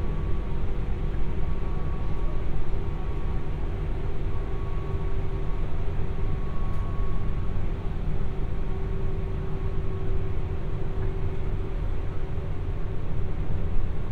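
Interior running noise of a JR West 201 series electric train's motor car at speed: a steady low rumble of wheels on rail, with faint steady hums over it.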